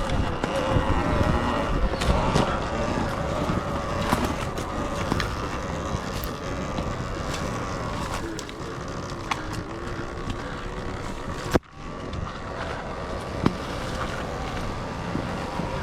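Electric dirt bike riding over rough trail: a steady motor whine that drifts slightly in pitch, over rumbling wind and tyre noise with scattered knocks and clicks. The sound cuts out briefly about three quarters of the way in.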